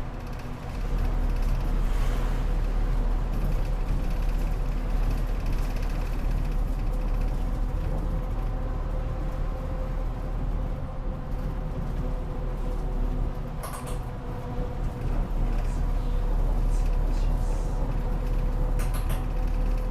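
Gifu Bus route bus heard from inside the passenger cabin: steady engine and road noise. A couple of brief sharp noises come in past the middle and near the end.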